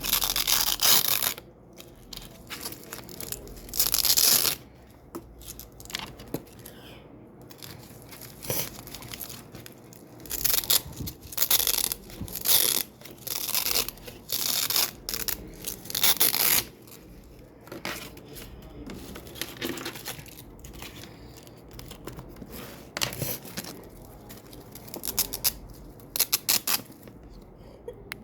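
Double-sided hook-and-loop (Velcro) strips being peeled apart again and again: a series of crackling rips, some short, some about a second long, with short pauses between them.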